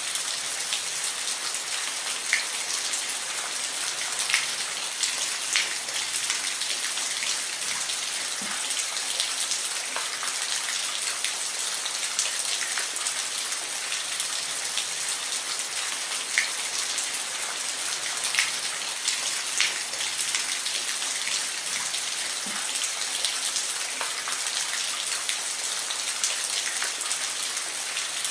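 Steady rain falling, a continuous hiss with individual drops ticking sharply on a surface here and there.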